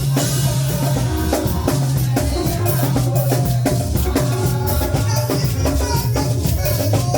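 Live band music with drum kit, bass and shakers playing a steady beat.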